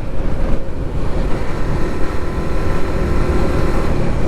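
Motorcycle engine running steadily at highway speed, heard with a dense rumble of wind and road noise. A faint steady engine tone holds through the middle.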